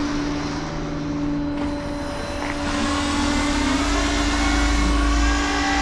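Flatbed tow truck running its hydraulics and winch while unloading a car: a steady engine drone with a whine, building and rising in pitch about halfway through as the load comes on.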